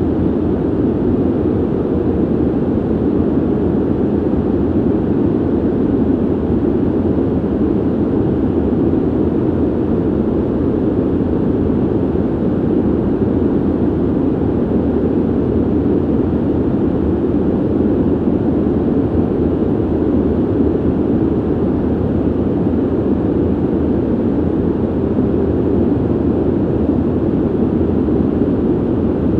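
Ventilation system running: a steady low rushing of air, with most of its weight in the low-mid range and little hiss.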